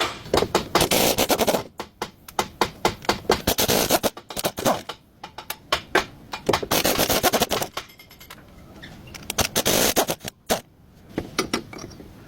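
Tool work on metal parts of a driveshaft: irregular sharp clicks and knocks, broken by three short rattling, scraping bursts.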